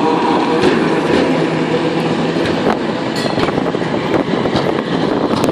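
Historic electric tram running past on its rails: a steady rumble of wheels and running gear with scattered sharp clicks and clatter.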